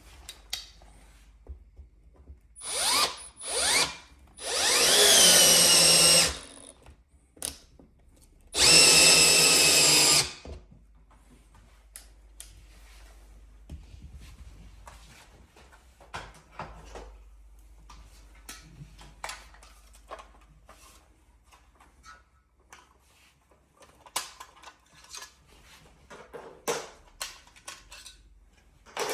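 Power drill running in bursts: two short spurts, then two longer runs of about two seconds each. This fits drilling or driving screws into the wall studs to fix a TV wall mount. Light clicks and knocks of handling follow.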